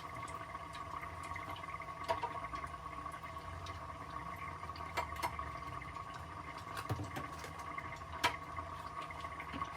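Steady kitchen hum, with something bubbling or running water underneath and a few sharp clinks of utensils about 2, 5, 7 and 8 seconds in.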